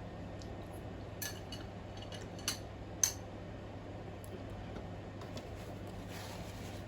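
Cutlery clicking and tapping against dishes a few times, with the sharpest click about three seconds in.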